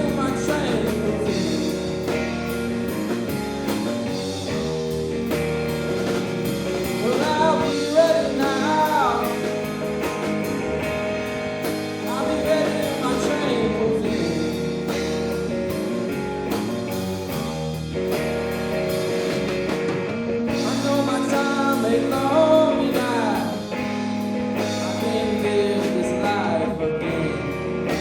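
Blues-rock band playing an instrumental break: a lead guitar solo with string bends over a steady band backing, with cymbal hits keeping time.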